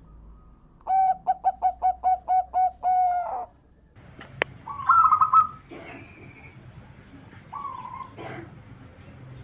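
Zebra dove (perkutut) cooing: a quick run of about eight short, even coos ending in a longer drawn-out note. About a second later comes a sharp click, then a louder warbling call and fainter bird calls.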